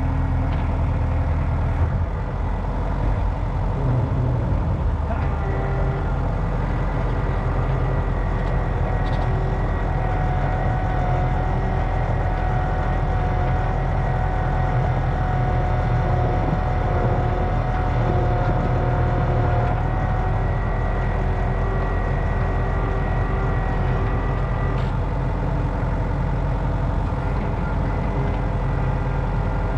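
A sawmill's engine running steadily. A higher steady tone joins it about ten seconds in and fades out about twenty seconds in.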